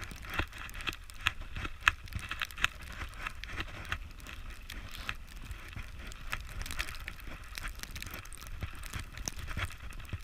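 Boots crunching through deep snow in irregular steps, with wind buffeting the microphone as a steady low rumble.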